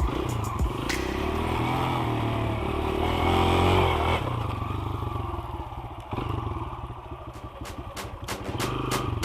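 Dirt bike engine being ridden, revving up to a peak about four seconds in, then easing off to a lower, uneven note before picking up again near the end, with a few sharp clicks.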